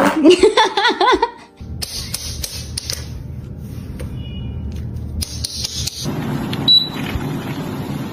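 A parrot making a quickly wavering, laugh-like call for about the first second, followed by a steady rushing noise that breaks off briefly around the middle.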